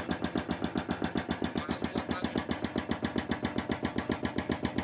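Hydraulic breaker hammer on a CAT 320C excavator pounding K500 concrete: a fast, steady hammering of about eight blows a second.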